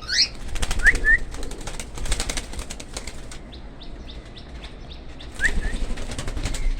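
Cockatiel's wings flapping in two fluttering bursts, one near the start and one near the end, as it flies in the cage. A few short rising chirps come in between.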